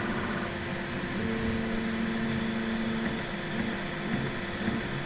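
Bambu Lab P1-series 3D printer's stepper motors singing during its pre-print calibration routine: a pair of steady tones held for about two seconds, then short wavering tones that slide up and down in pitch, over a constant fan hum.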